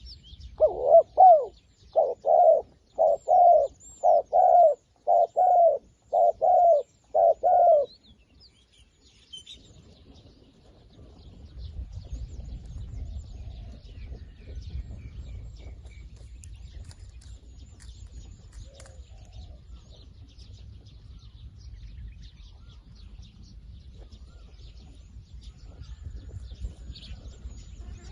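A dove cooing a run of about fifteen quick low notes in short groups, lasting about seven seconds from about a second in. It is the advertising call of a decoy dove set out to draw wild doves down. Faint high chirps of small birds and a low rumble follow.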